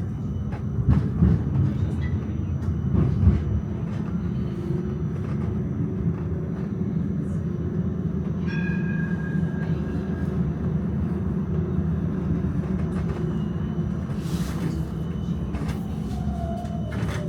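Melbourne electric tram running along its track: a steady low rolling rumble with a few louder knocks in the first few seconds and a short high tone about halfway. Near the end a falling whine begins as the tram slows for its next stop.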